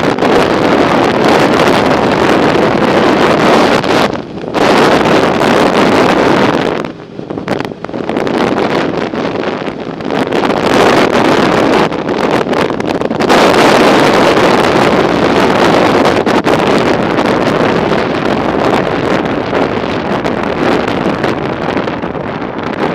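Wind buffeting the microphone of a camera riding on a moving bicycle: a loud, steady rush that eases off briefly about four seconds in and again for a couple of seconds around seven to nine seconds in.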